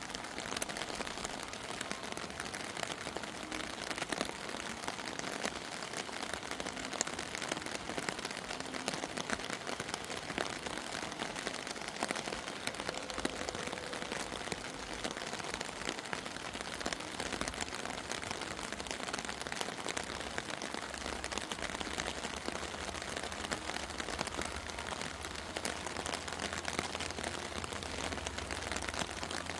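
Rain falling steadily, a dense patter of many small drops. A low hum comes in about two-thirds of the way through.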